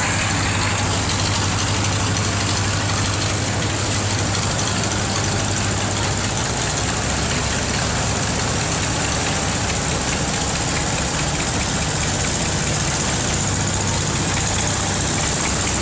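Tractor engines running at a steady low idle, the engine note shifting a little about seven seconds in.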